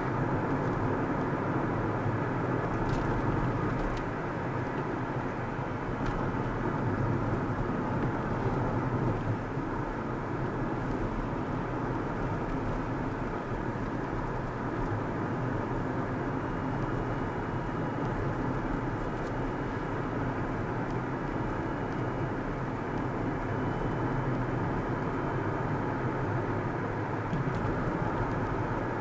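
Steady road noise of a car being driven: a constant hum of tyres and engine with no change in speed.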